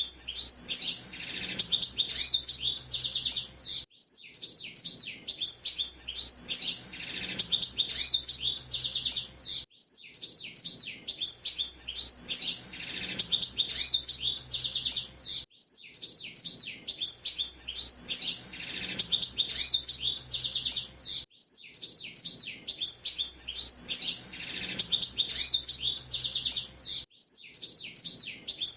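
A male hooded siskin (pintassilgo de gravata) singing a long, fast twittering song of chirps and trills. The same song phrase repeats about every six seconds, with a brief pause between repeats.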